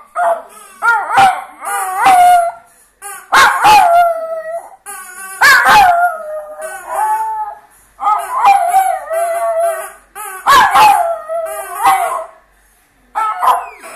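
A dog howling and whining in about seven drawn-out, wavering bouts with short gaps between them, each starting sharply.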